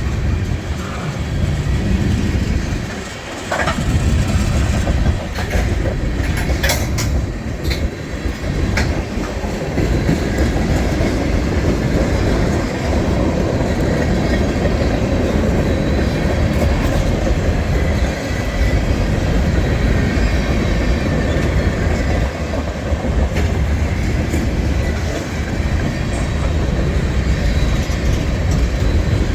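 Freight train cars rolling past, steel wheels clicking over the rail joints with a steady low rumble. A few sharp metallic clanks come between about three and nine seconds in.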